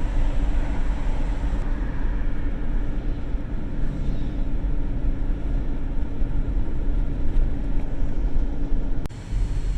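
A car driving, with steady engine and road rumble and a constant low hum.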